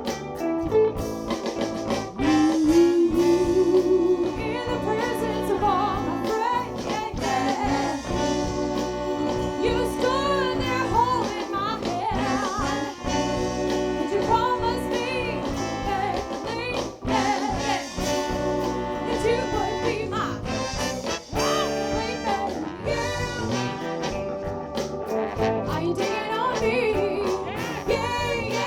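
A live soul band playing, with a horn section of sax, trombone and trumpet over drums, bass and guitar, and sung vocals.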